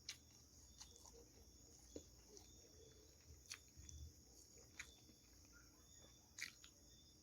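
Near silence: faint steady insect trilling with soft repeating chirps, and about five soft clicks from quiet chewing.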